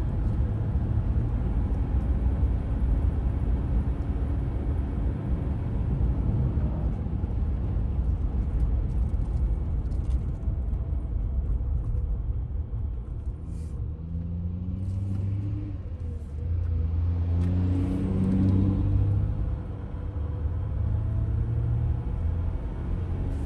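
Dodge Ram 1500 EcoDiesel pickup on the road: a steady low rumble of engine and road noise, with the engine's tone rising and shifting about two-thirds of the way through, then settling.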